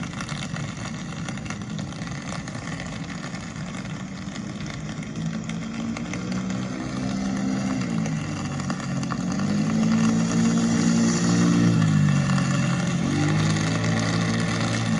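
A motor vehicle's engine passing close by, getting louder over several seconds, its pitch falling and rising as it changes speed. A steady hiss runs underneath.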